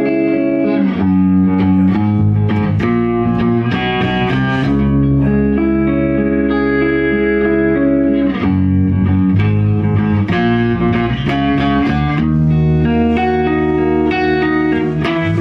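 A band playing in a small room: electric guitar chords with a bass line, the chords changing every second or two.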